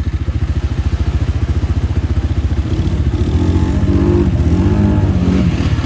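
Four-wheel-drive ATV engine running with a fast, even throb, then revved up and down several times from about halfway in, as the stuck machine tries to climb out of deep mud and water.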